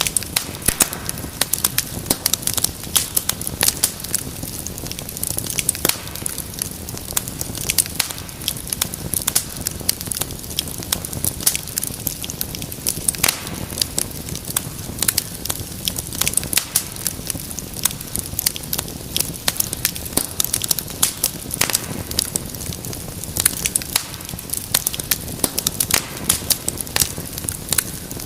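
Wood fire crackling in a fireplace: a steady low rush of flame under dense, irregular sharp pops and snaps.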